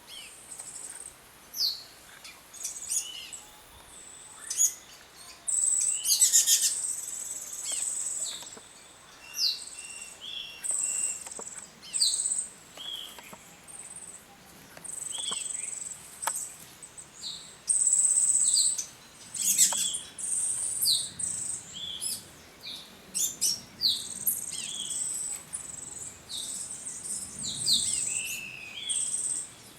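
Several small birds calling: many short high chirps and quick falling notes scattered throughout. Now and then there is a high, thin buzzing trill lasting a second or two.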